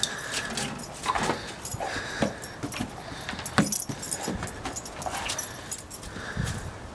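A Great Dane whining briefly several times, with scattered clicks and rustling.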